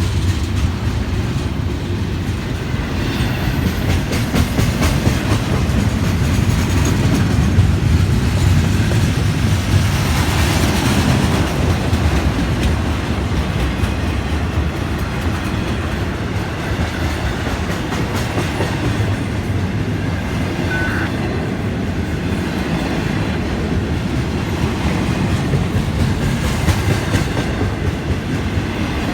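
Florida East Coast Railway train's cars rolling past, a steady loud rumble with wheels clicking over the rails.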